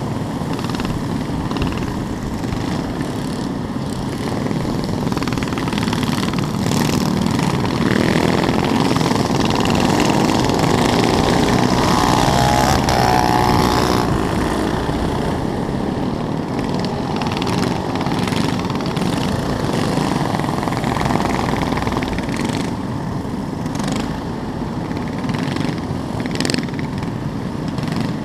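Small mini bike engines running continuously. About halfway through the sound grows louder and one engine's pitch bends, as a bike passes close by.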